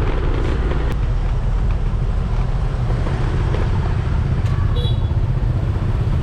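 Steady rumble of a scooter ride through city traffic: engine and road noise with other motor vehicles around.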